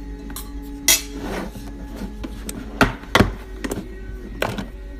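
Several sharp knocks and clatters of kitchen things being handled and set down on a hard counter during breakfast preparation, with faint music underneath.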